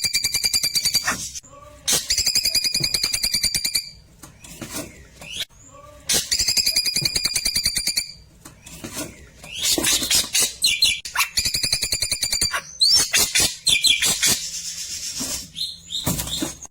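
Klewer bird singing in fast, rattling trills: bursts of rapidly repeated high notes, each a second or two long, with short pauses between them.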